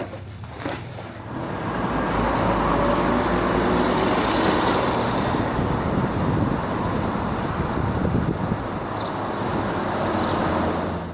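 Motorcycle running on the road, engine hum under a steady rush of wind and road noise that swells in about a second and a half in, after a couple of brief clicks, and cuts off abruptly at the end.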